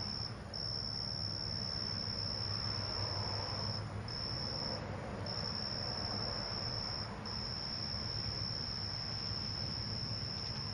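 Night insects trilling: one continuous high-pitched trill that breaks off briefly a few times, over a low steady hum.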